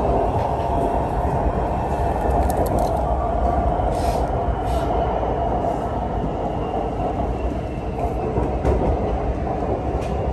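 BTS Skytrain car running along the elevated track, heard from inside the carriage as a steady rumble of running noise, with a few faint clicks.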